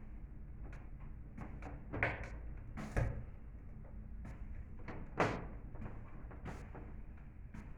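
Clicks and knocks of hand work on small parts and tools, with three louder sharp knocks about two, three and five seconds in, over a steady low hum.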